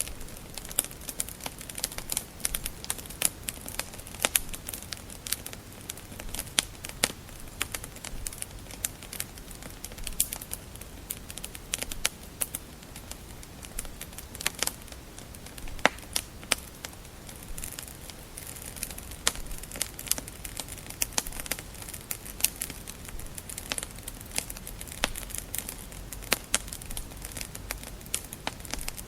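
Wood fire crackling: a dense, irregular run of sharp pops and snaps from burning logs over a soft steady hiss, with a few louder pops scattered through, such as one about sixteen seconds in.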